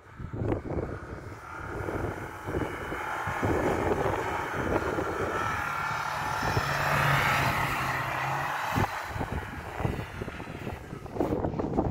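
Lada Niva 4x4's engine pulling hard through deep snow as the car drives up toward and past, louder as it nears and fading after it passes.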